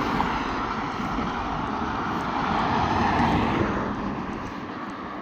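A vehicle passing by on the road: a rushing tyre and engine noise that swells to a peak about three seconds in, then fades away.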